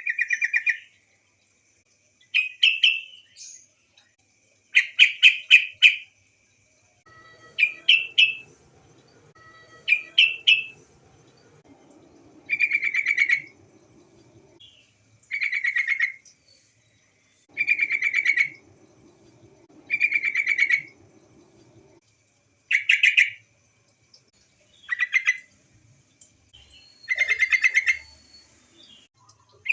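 Female yellow-vented bulbul (trucukan) calling: short bursts of rapid, bubbly chattering notes, repeated about every two seconds, about a dozen in all.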